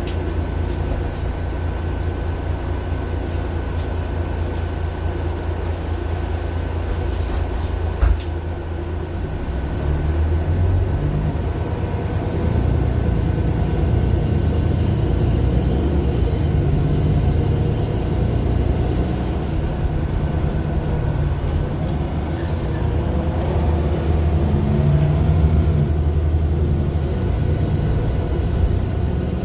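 Mercedes-Benz Citaro LE city bus's OM 457 hLA six-cylinder diesel heard from on board, running steadily at first. A sharp click comes about eight seconds in, then the engine gets louder and more uneven as the bus pulls away and drives on, with a faint rising whine near the end.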